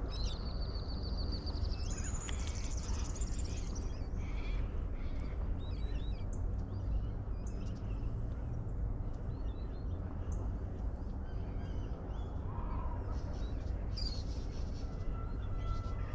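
Birds calling: a rapid high trill in the first few seconds that steps up in pitch partway through, then scattered short chirps, over a steady low background rumble.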